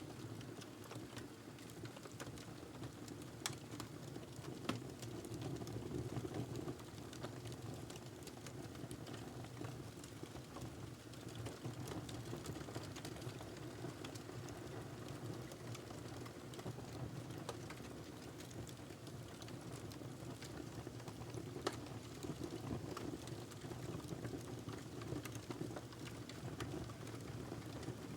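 Wood fire burning in a fireplace: a steady low rush of flames with frequent small crackles, and a few sharper pops, two of them a few seconds in and one more past the middle.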